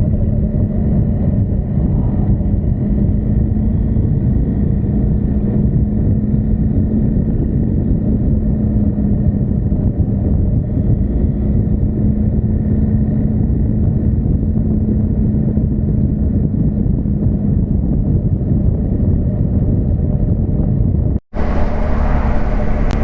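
Motorcycle engine running at steady revs while riding, under a heavy rumble of wind and road noise. About 21 seconds in the sound drops out for a moment and comes back brighter.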